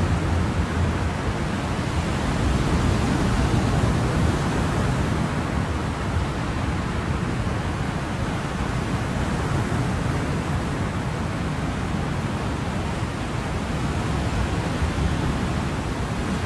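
Steady wash of ocean surf: a constant rush of noise, heaviest in the low range, swelling slightly now and then.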